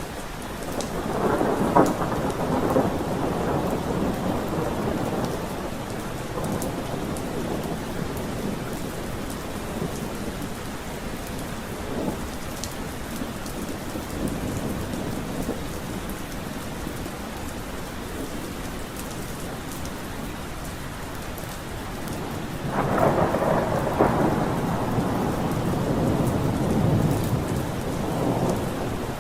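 Steady rain falling, with thunder rumbling twice: a loud roll about a second in that fades over several seconds, and another near the end.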